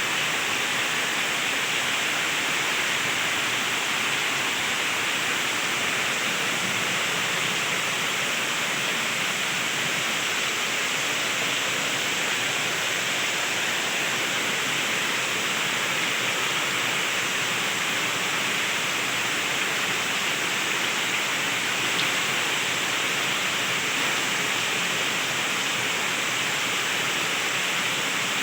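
Heavy rain pouring steadily, an even hiss with no breaks or thunderclaps.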